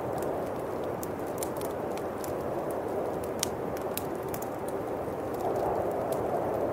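Steady howling winter wind, swelling a little near the end, with a bonfire crackling over it in scattered sharp pops and snaps.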